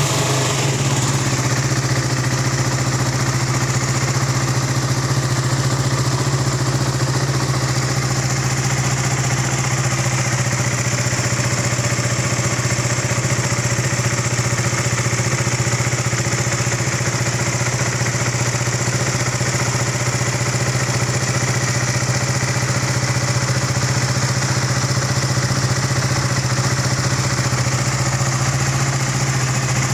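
KTM Duke 200's single-cylinder four-stroke engine idling steadily through its stock exhaust, with an even, unchanging note and no revving.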